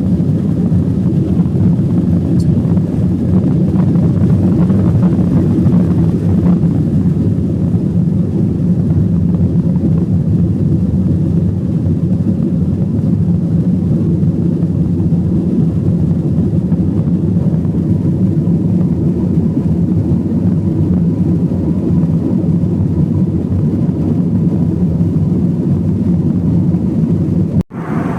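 Steady low rumble of an Airbus A321-200's jet engines and airflow as heard inside the passenger cabin in flight. It cuts out abruptly for an instant near the end.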